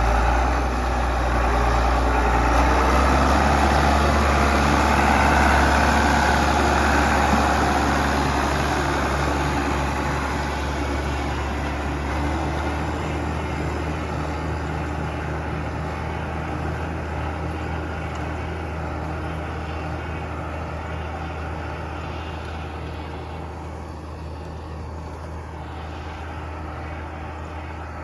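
Tractor engine running steadily while pulling a corn planter, its low hum growing slowly fainter from about six seconds in as it draws away.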